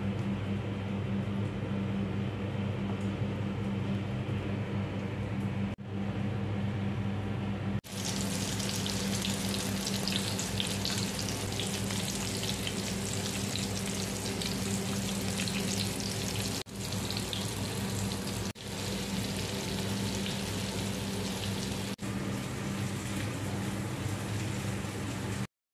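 Egg-coated eggplant omelette frying in hot oil in a pan: a steady sizzle with crackle, starting after a cut about a third of the way in. A steady low hum runs underneath.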